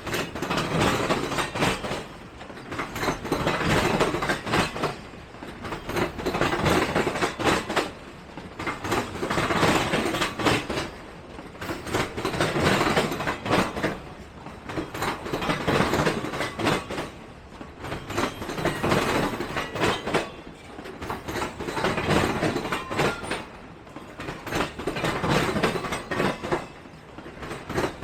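Freight train cars rolling past, their wheels clacking over rail joints. The sound swells and eases about every three seconds as each car goes by.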